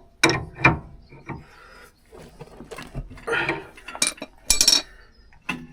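Metal tools and car parts clinking and knocking as they are handled and set down, in a run of sharp irregular clanks.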